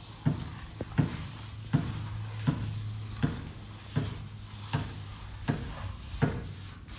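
Nine evenly spaced knocks, about one every three-quarters of a second, with a low steady hum under the middle of the run.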